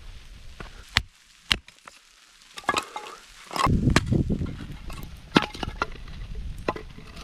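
Wood cracking and snapping, like sticks being broken up by hand. There are a couple of sharp single snaps, then a denser run of cracking and crunching from about halfway through.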